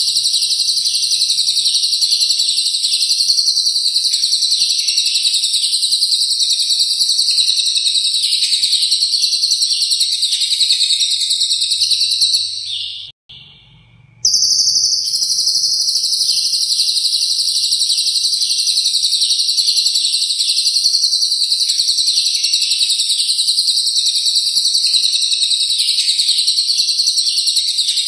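Lovebird singing 'ngekek', its long, rapid, unbroken high-pitched chattering trill, with a cililin-style fill in the song. It drops away for about two seconds near the middle, then starts again at full strength.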